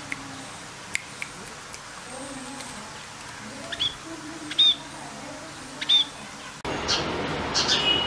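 Caged small birds chirping: a few sharp clicks, then three short chirps about a second apart. About two-thirds of the way through, the sound cuts abruptly to louder, rapid sparrow chirping.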